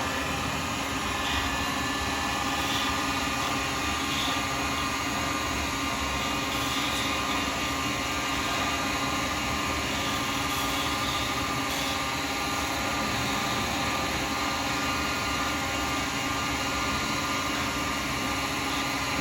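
Wood lathe running steadily with a constant motor hum, spinning an acrylic pen blank while a small skew chisel takes light trimming cuts.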